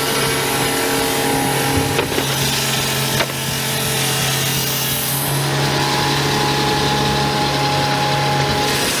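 Portable swing-blade sawmill with a Honda petrol engine, the engine running steadily while the blade saws through a log. Two short sharp knocks come about two and three seconds in.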